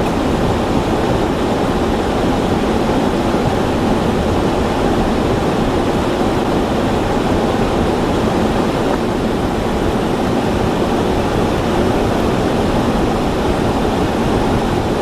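A steady, even rushing noise with no gusts, strokes or breaks.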